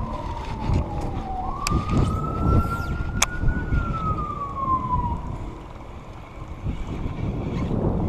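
A single siren tone wailing slowly: it falls, jumps up, rises gently and then falls away, fading out about five seconds in. Wind rumbles on the microphone throughout, with a few sharp clicks.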